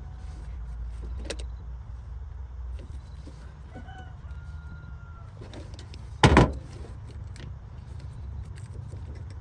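Car engine running steadily with a low rumble. A short pitched call like a rooster crowing comes about four seconds in, and a single sharp clank about six seconds in.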